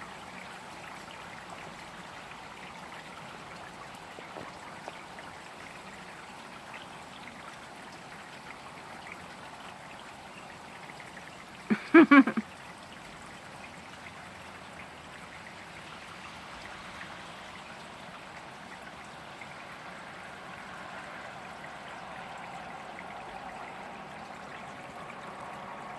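Steady hiss of rain with trickling, dripping water. Near the end a car's tyres on the wet asphalt road swell in.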